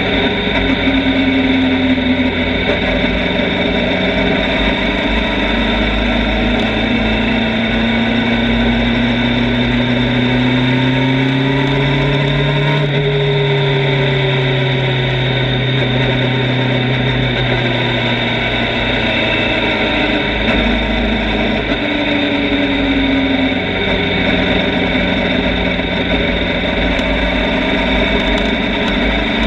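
Motorcycle engine running under way. Its pitch climbs slowly over several seconds and then falls back as the revs rise and drop.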